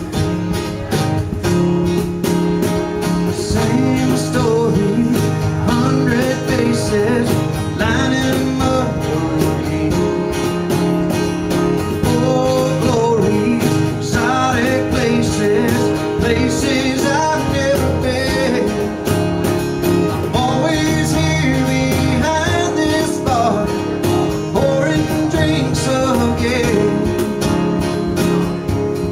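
Live country song: acoustic guitar strumming over a steady cajon beat, with singing.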